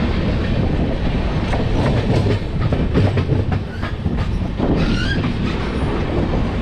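Indian express passenger train running, heard from an open coach doorway: a steady rumble with the wheels clicking and clattering over the rail joints. About five seconds in, a brief high squeal cuts through.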